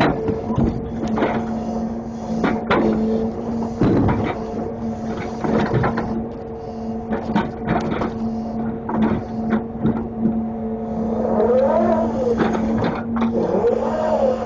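Grapple truck's engine and hydraulics running with a steady hum, and repeated knocks and clanks from the grapple and its load. A wavering whine rises and falls near the end.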